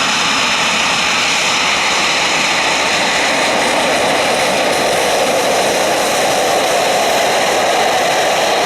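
Eurofighter Typhoon's twin EJ200 turbofan jet engines running loudly and steadily, a broad rushing jet roar whose tone shifts slowly over the seconds.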